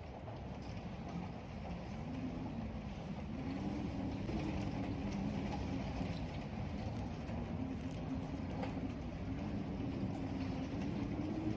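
Storm wind howling through the corridor: a low moaning tone that wavers in pitch over a steady rushing rumble. It swells about two seconds in and then holds.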